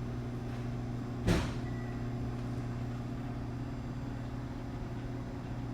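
Microwave oven running with a steady low hum while eggs cook inside. A single sharp click about a second in.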